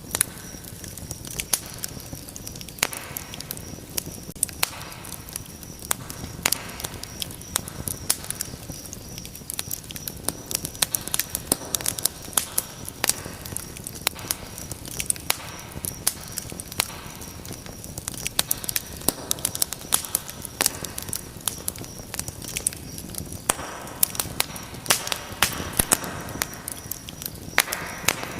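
Wood fire crackling in a fireplace: irregular sharp pops and snaps, several a second, over a soft steady rush of burning.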